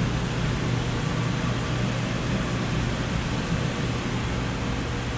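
Steady low hum with an even hiss of running mechanical equipment, without change.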